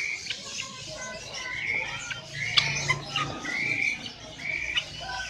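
Caged birds calling and chirping. One bird repeats a short note about once a second, and there are a couple of sharp clicks around the middle.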